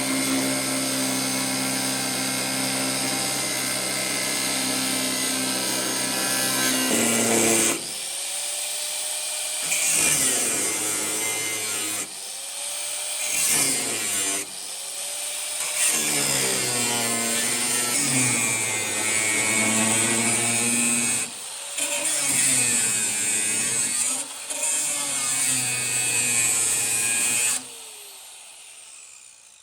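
An electric hand power tool running: steady for several seconds, then switched off and on again several times, each restart rising in pitch as the motor spins up and the pitch sagging as it works the metal. It winds down near the end.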